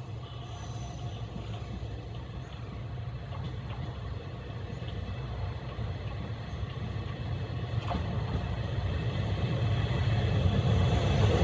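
Tarumi Railway diesel railcar's engine rumbling as the train approaches, growing steadily louder.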